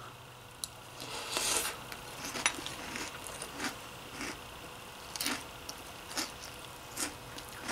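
A person chewing a mouthful of crunchy chocolate waffle cereal soaked in milk: soft, irregular crunches about once a second.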